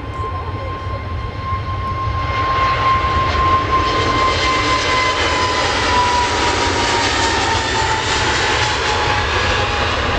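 Airliner's engines passing close by: a loud rushing noise that swells about two seconds in, with a whining tone that slowly drops in pitch as the aircraft goes past.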